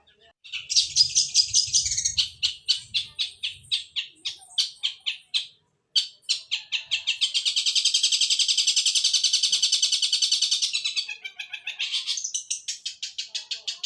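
Long-tailed shrike (cendet) singing the sparrow-like chattering song that keepers call 'suara gereja'. The song is a rapid run of high chips, which breaks off briefly about halfway and then speeds into a fast unbroken trill before settling back into repeated chips.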